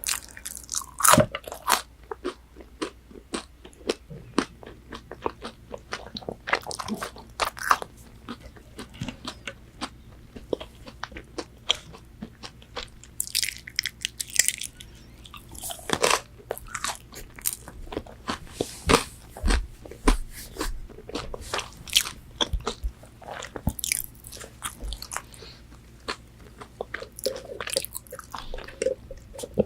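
Close-miked biting and chewing of crispy fried McDonald's chicken nuggets: irregular crunches and wet chewing clicks, with a few longer crackling bites.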